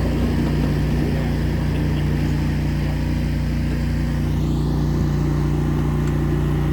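A 7.5-inch gauge ride-on train running along the track, its locomotive engine holding a steady low drone.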